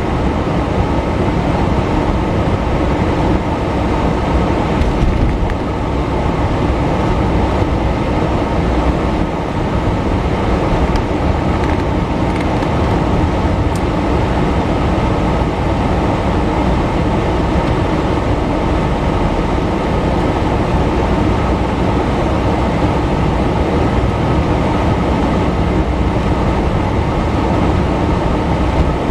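Steady rumble of road and engine noise inside a moving car, without change.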